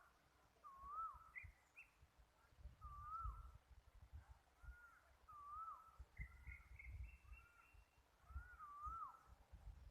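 A bird whistling a short phrase that dips, rises and then drops, repeated four times about two seconds apart, with a few higher notes in between. A faint irregular low rumble, like wind on the microphone, runs underneath.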